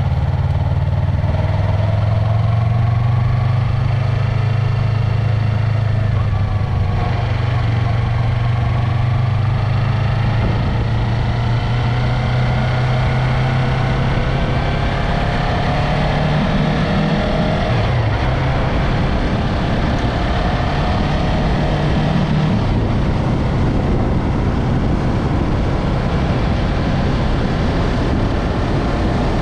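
Yamaha MT-03 motorcycle engine running on the move, its note rising and falling with the throttle, over wind and road noise.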